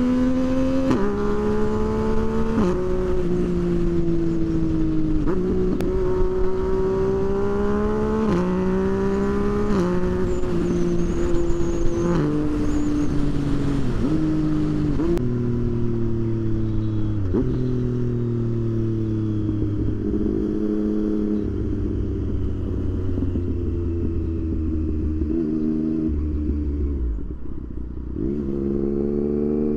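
Motorcycle engine accelerating up through the gears, its pitch climbing and then dropping at each of several quick shifts. In the second half the engine runs at a lower, steadier note with a few step changes in pitch, over a low rush of wind.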